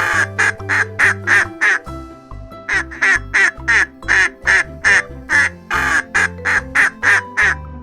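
Duck quacking, a rapid series of short quacks about three a second, breaking off briefly about two seconds in and then going on, over children's background music.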